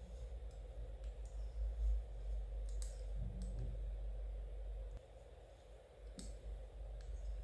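Knitting needles clicking against each other now and then, a few sharp ticks spread irregularly, over a low steady background rumble.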